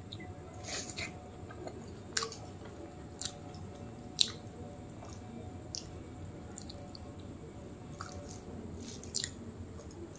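Close-up wet chewing and lip smacks of a mouthful of rice and mutton curry, with soft squishing as fingers mix rice and curry on the plate. Short sharp smacks come every second or so, the loudest about four seconds in.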